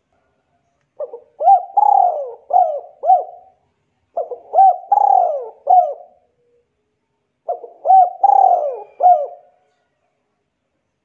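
A bird cooing in three similar phrases of several short notes each, a few seconds apart.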